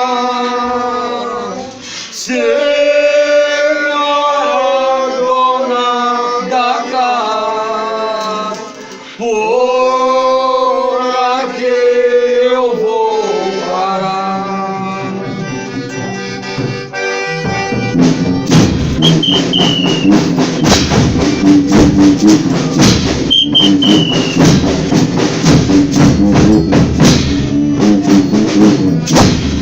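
A folia group singing a devotional verse together. About eighteen seconds in, the singing gives way to drums and other instruments playing a fast, steady beat.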